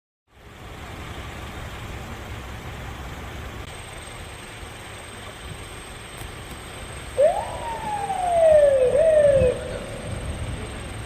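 Strong gusty wind with a steady rush and low rumble. About seven seconds in, a loud wailing tone rises quickly and then slides slowly down, twice in a row.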